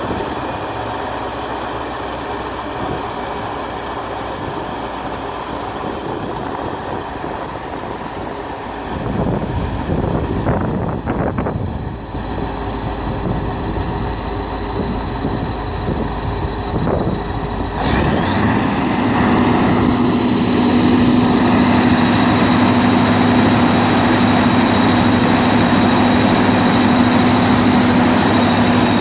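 Scania DS14 turbocharged V8 diesel on a generator set running steadily, with a thin high whine over the engine note. About 18 seconds in the sound changes abruptly; from then on the engine runs louder with a strong steady hum.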